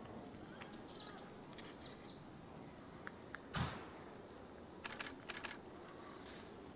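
Small birds giving short, high chirps in the first couple of seconds. About three and a half seconds in comes one brief rustle with a low thud, the loudest sound, and around five seconds a few quick clicks.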